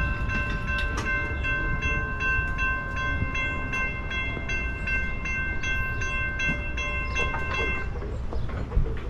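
CTA Yellow Line rapid-transit train running, heard from inside the car: a steady low rumble with a high whine of several held tones, broken by regular clicks. The whine stops near the end.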